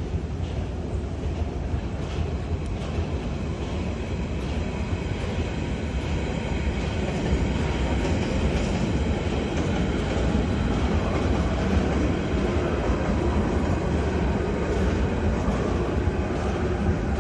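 Train running on its rails: a steady, continuous running noise that grows a little louder partway through.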